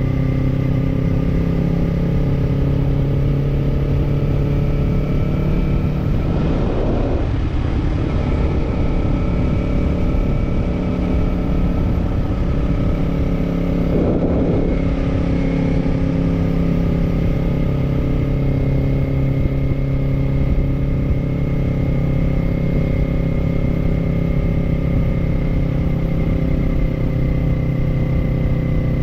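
Kawasaki parallel-twin motorcycle engine running steadily while riding. The engine note shifts briefly twice, about a quarter of the way in and again about halfway through.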